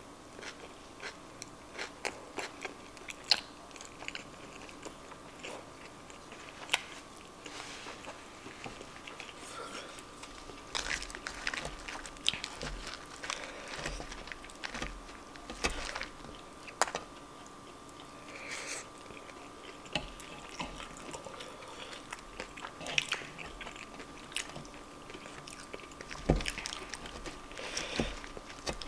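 Close-miked eating sounds: chewing and crunching food, with irregular clicks and small crunches as a wooden fork stirs and digs through cheesy fries topped with crushed Xtra Hot Cheetos in a paper fry boat. A faint steady hum runs underneath.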